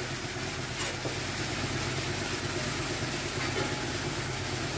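Chopped amaranth greens frying in a hot kadai on a gas stove, a steady sizzling hiss, under a steady low hum.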